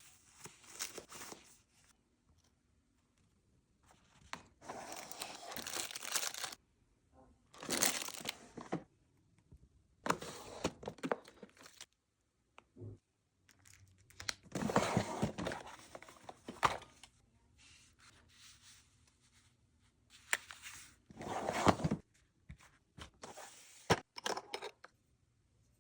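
Handling of small packaged items: repeated bursts of rustling and crinkling, some with a tearing sound, with short pauses between them.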